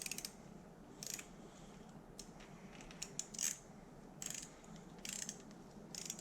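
Torque wrench worked back and forth as a ratchet to run bolts down, its ratchet pawl clicking in short bursts about once a second.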